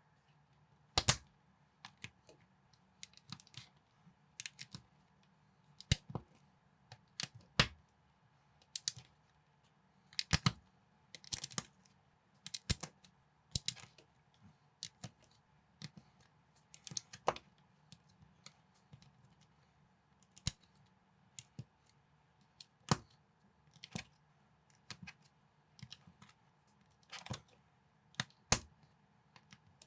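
Plastic Lego-compatible building bricks being handled and pressed together, giving irregular sharp clicks and clacks, often one to three a second.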